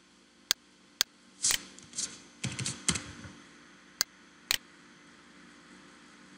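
About ten sharp clicks from a computer mouse and keyboard keys, some half a second apart and a quick cluster about two and a half seconds in, stopping after about four and a half seconds and leaving faint room tone.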